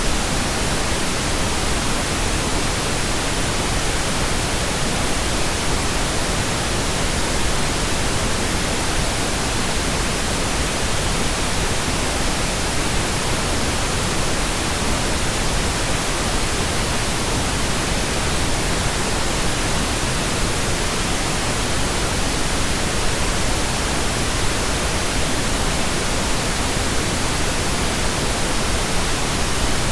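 Steady computer-generated pink noise: an even, unchanging hiss across the whole range, with no tones or breaks.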